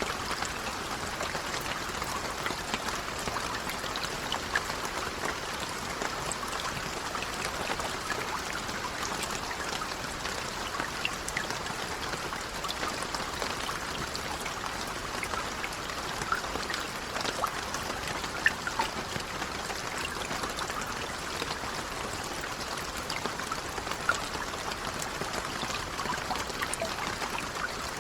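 Steady rain, with many small drops pattering and scattered louder drips.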